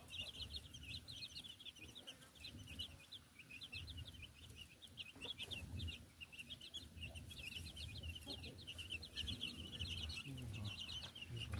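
A brood of baby chicks peeping continuously in rapid, high-pitched cheeps, with a mother hen clucking low now and then beneath them. Faint.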